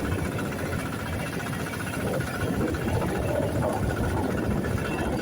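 Kubota KRT140 walking tractor's single-cylinder diesel engine running steadily as it pulls a khlub roller, under heavy wind buffeting on the microphone.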